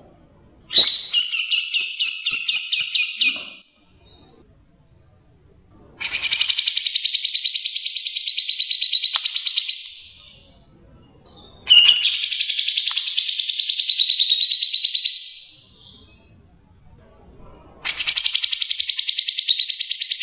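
White-rumped shama (murai batu) singing: four long phrases of fast, rapidly repeated high notes, each lasting three to four seconds, with short pauses between.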